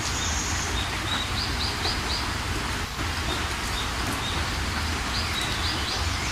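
Steady rain with birds chirping over it: a high whistled note at the start, then two quick runs of short rising chirps, about a second and a half in and again near the end.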